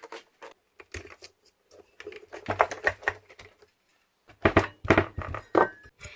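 Hard plastic parts of a Miele vacuum cleaner being handled and taken apart: irregular clusters of sharp clicks and knocks with short pauses between them.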